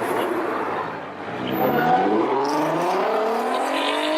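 A car engine accelerating hard. After a brief dip about a second in, its pitch climbs steadily for about three seconds as the car pulls away.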